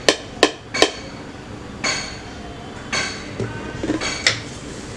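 A spoon clinking and scraping against a mixing bowl as flour is spooned into butter: three sharp clinks in the first second, then a few softer scrapes about a second apart.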